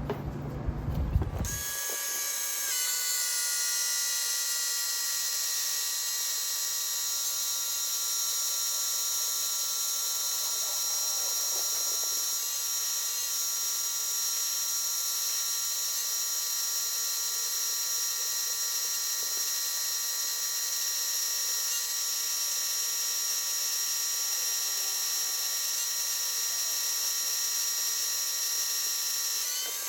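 Small 12-volt electric fluid-transfer pump starts about a second and a half in and runs steadily with a high motor whine, pumping old automatic transmission fluid out. Its pitch sags slightly just after starting, then holds steady.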